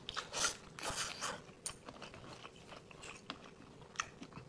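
A person biting into and chewing a whole braised Changbai forest frog full of roe. Sharp bites and crunches in the first second and a half, then quieter scattered chewing clicks.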